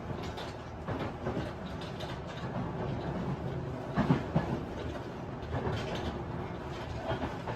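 Interior running noise of a Tobu 50090 series electric train car at speed: steady wheel and rail rumble with scattered clatter and rattles, and a louder knock about four seconds in.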